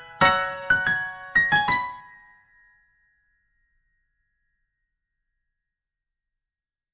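Background piano music: a few struck notes that fade out about two seconds in, leaving the track silent.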